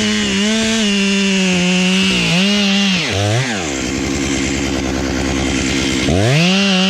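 Two-stroke chainsaw held at high revs with brief dips in pitch. It drops to idle about three seconds in, then revs back up near the end.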